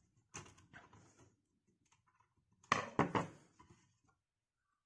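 Small clicks and knocks of screws being taken out of a stereo's casing and handled. A louder clatter comes about three seconds in.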